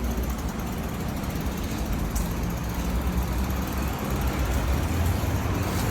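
Steady low rumble of road traffic noise, with a couple of faint clicks.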